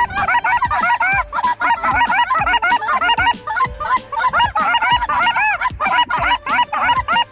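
Geese honking: many short calls overlapping without a break.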